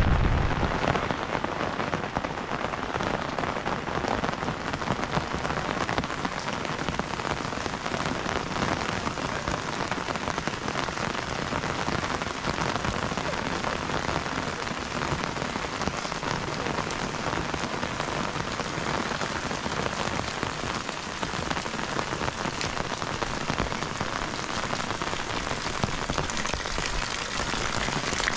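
Steady rain falling, a dense even hiss of many drops.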